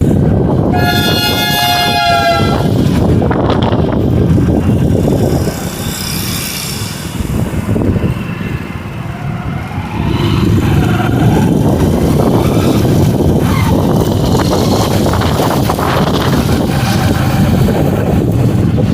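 Storm wind buffeting the microphone in a loud, steady rumble that eases a little in the middle. A horn sounds once, for about two seconds, near the start.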